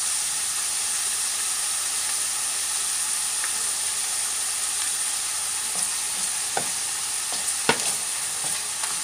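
Ground beef and chopped garlic sizzling steadily in hot oil in a frying pan, the beef having rendered out its own fat. In the second half a few sharp clicks sound as a plastic spoon stirs and knocks against the pan.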